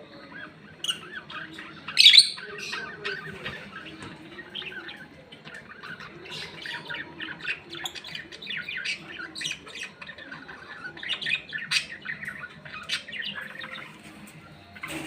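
A pair of lovebirds chattering in a rapid stream of short high chirps and squeaks, with one loud shrill squawk about two seconds in.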